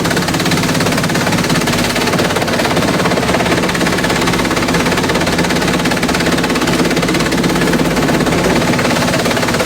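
Industrial bamboo shredder running steadily under load: a constant engine drone beneath a dense, rapid crackling rattle of bamboo being broken up.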